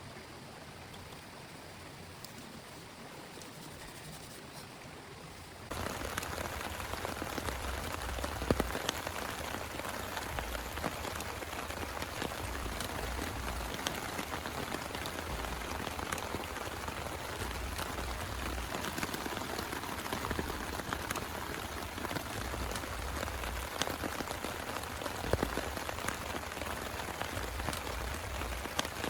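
Steady heavy rain. About six seconds in it jumps abruptly to louder, denser rain, with many sharp drop hits through it.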